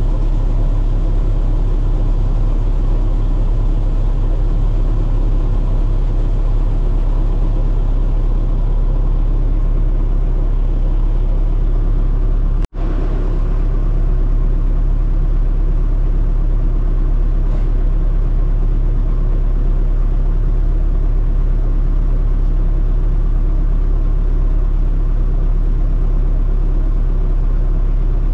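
Diesel engine of farm machinery running steadily under load, a continuous low drone. The sound drops out for an instant about halfway through, then carries on unchanged.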